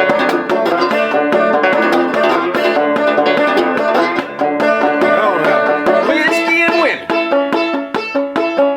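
Six-string banjo-guitar played clawhammer style with a slide: a steady driving rhythm of plucked and brushed strings under a blues riff, with slide notes gliding up and down in pitch, most plainly about six seconds in.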